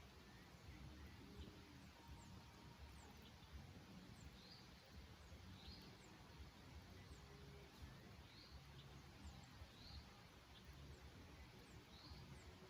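Faint, short songbird chirps, about five scattered a couple of seconds apart, over steady low background noise.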